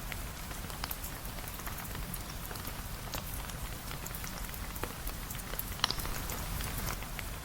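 Rain falling steadily as an even hiss, with scattered sharp ticks of drops or crackles; one is louder about six seconds in.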